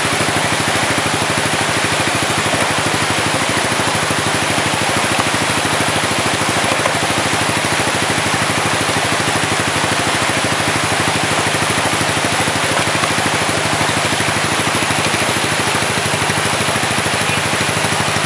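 Dirt bike engine idling steadily, mixed with the even rush of flowing stream water.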